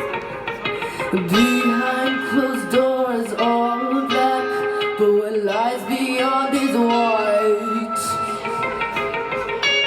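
Live indie/progressive rock band playing, guitar-led. A lead line slides and bends in pitch from about a second in until about eight seconds, while the bass drops away, then the full band comes back in.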